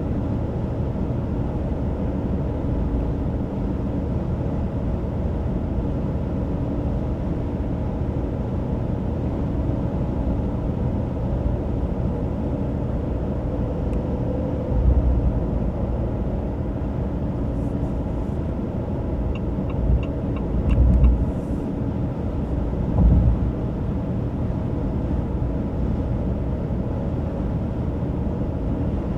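2025 Ram 2500 Rebel's high-output 6.7-litre Cummins inline-six turbo-diesel truck running on the road, with a steady low engine and road rumble. A few heavier low thumps come in the second half.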